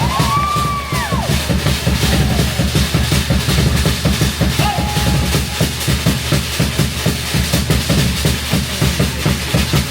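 Fast drumming music with rapid, even drum strokes, about five a second, and a few short sliding high tones in the first second.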